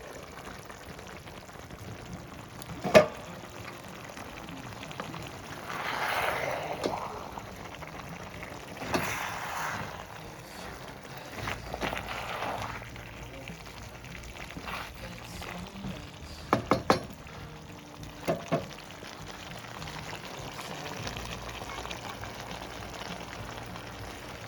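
Water poured in three short spells of about a second each, with a sharp knock about three seconds in and a few quick knocks, three and then two, in the second half.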